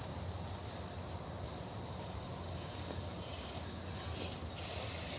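Insects chorusing in one unbroken high-pitched drone, with a steady low rumble beneath it.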